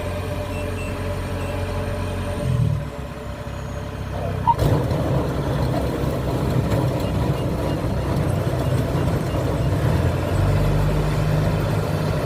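Kubota DC70 combine harvester's diesel engine running steadily. A sharp knock comes about four and a half seconds in, after which the machine sounds rougher and louder, settling back into an even engine note near the end.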